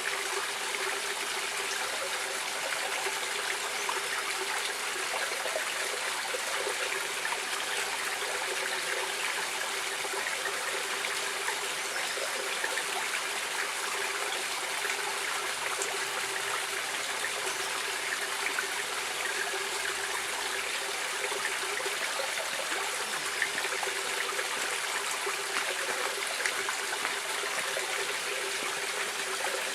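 Stream water flowing steadily, an even rushing sound with small trickles running through it.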